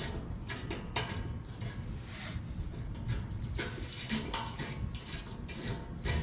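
Irregular metallic clinks and knocks of tools and hardware being handled, over a low steady rumble.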